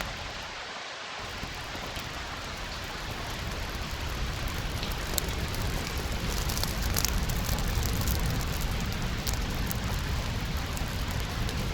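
Steady rain, with scattered sharp crackles from a fireplace fire over it; a low rumble swells a few seconds in.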